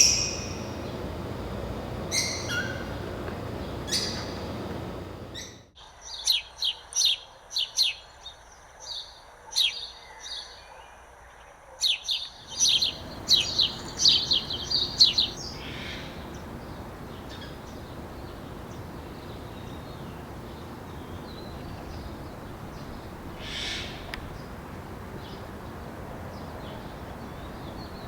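Small birds chirping: quick runs of short, high calls, busiest in the first half, then a few scattered calls over a steady background hiss.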